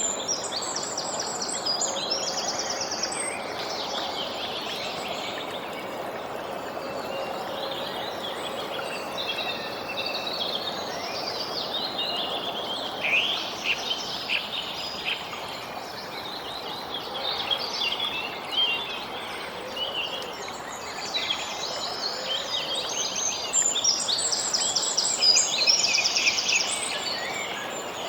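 Many small songbirds chirping and trilling, with quick rapid trills near the start and again near the end, over a steady background hiss.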